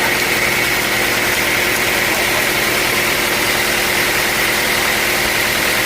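Sawmill machinery running steadily under an engine's drone, with a constant high whine and no change in load.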